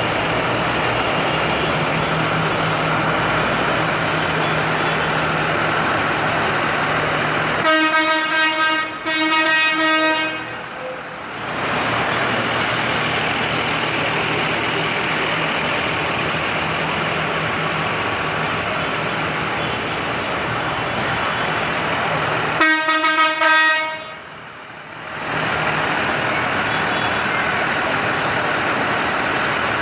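Tractor engines running steadily as the parade passes, with a vehicle horn sounding twice: a long blast of two to three seconds about a third of the way in, and a shorter one about three-quarters of the way through.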